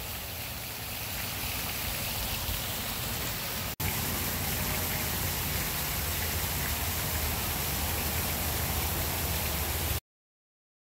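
Steady rushing of falling water, an even hiss with a low rumble underneath. It drops out for an instant near the middle and cuts off abruptly near the end.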